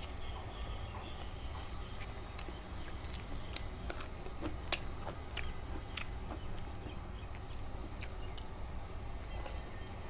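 Mukbang eating sounds: someone chewing a mouthful of chicken biryani, with scattered sharp wet mouth clicks and smacks over a steady low hum.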